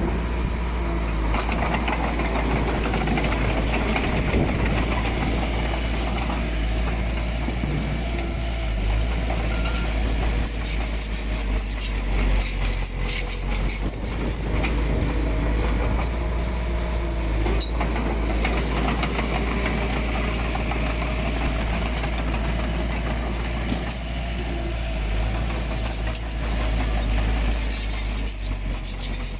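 Diesel engine of heavy earthmoving machinery running steadily under work, with scattered metallic clatter and rattles.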